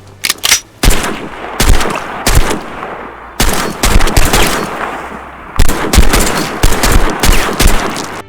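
Gunfire sound effect: a few sharp shots, then three long, loud volleys of rapid shots.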